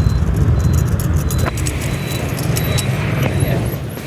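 Motorbike riding in city traffic: a steady engine and wind rumble, with scattered clicks and a few short high beeps over it.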